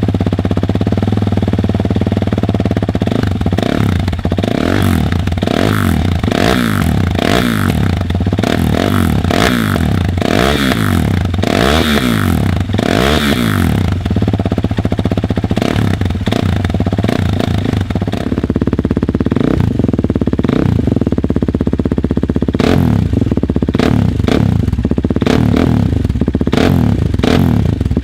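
KTM RC390's single-cylinder engine, breathing through a decat high-level stainless exhaust with a mini silencer, being blipped again and again. It drops back to a steady idle between the revs, with a longer spell of idling around the middle. Loud.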